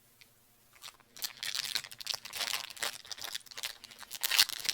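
Crunching and chewing of a Cadbury Crispy Crunch bar close to the microphone, its hard, flaky centre crackling in quick irregular crunches that start about a second in.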